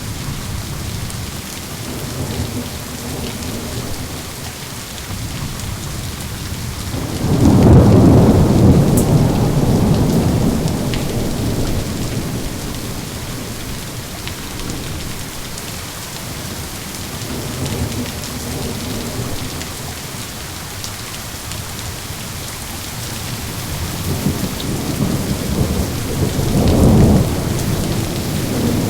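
Steady rain falling with thunder. A loud rolling rumble builds about seven seconds in and fades over several seconds, and a shorter roll comes near the end.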